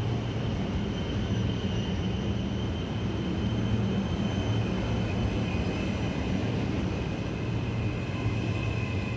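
Train running at the station: a steady low rumble with a thin, high, steady whine above it.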